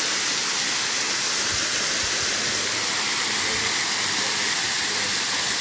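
Waterfall running: a steady, even rush of falling water with no change in level.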